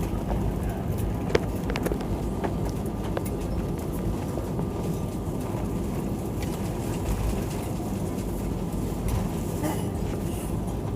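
Airliner cabin noise: a steady low rumble from the engines and airframe, with a faint steady whine above it.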